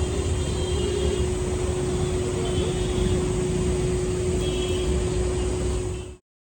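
Steady vehicle rumble with a constant low hum, cutting off suddenly near the end.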